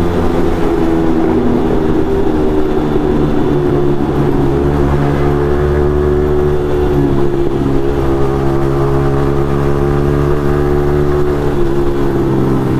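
Yamaha MT-15's single-cylinder engine through an Akrapovic exhaust, running loudly at fairly steady revs with small rises and dips in pitch, echoing inside a tunnel.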